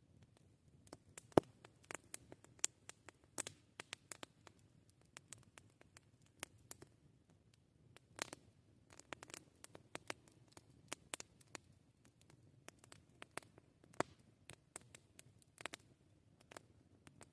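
Wood fire crackling: irregular sharp pops and snaps, scattered unevenly and spaced a fraction of a second to about a second apart, with the sharpest pop about a second and a half in.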